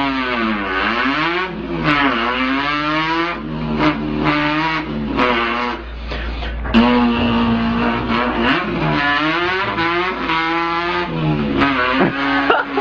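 A person imitating a car engine with his voice. The pitch climbs and then drops back again and again, like an engine revving up through gear changes, with a couple of stretches held at a steady pitch.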